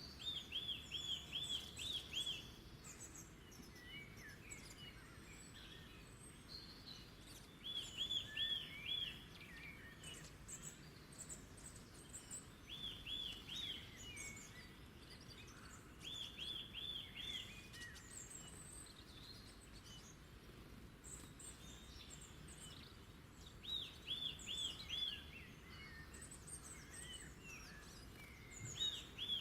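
Wild birds singing. One bird repeats a short phrase of four or five quick, even notes every few seconds, while other birds add scattered higher chirps over a soft steady background.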